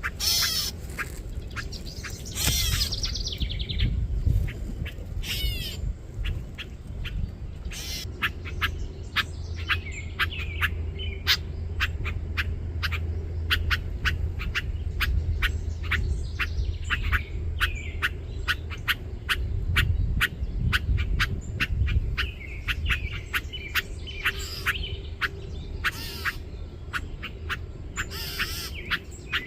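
Parent songbirds giving sharp alarm calls, repeated two or three a second, with some higher chirps among them: they are agitated by a person close to their fledgling. A low rumble runs underneath.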